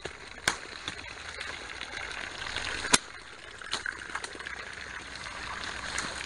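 Cold water running steadily from an artesian well's spigot, a continuous splashing hiss, with a few sharp clicks over it, the loudest about three seconds in.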